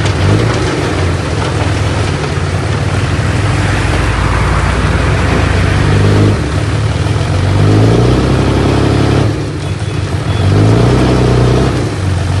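Heavy diesel engine of earthmoving machinery running under load, revving up three times as it works, with a brief easing off about three-quarters of the way through.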